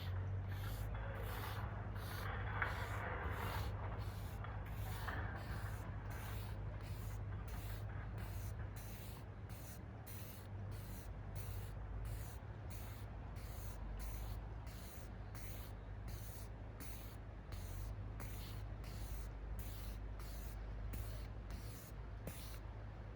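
Felt-tip marker rubbing over paper in steady back-and-forth strokes, a bit under two a second, with a low background rumble underneath.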